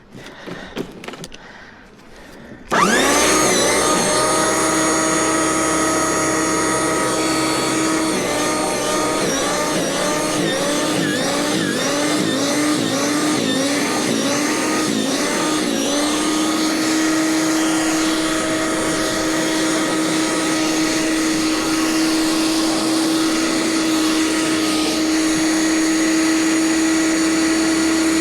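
A power snow shovel's motor cuts in abruptly about three seconds in and runs steadily with a high whine. For several seconds in the middle its pitch dips and recovers about once a second, then it runs steady again.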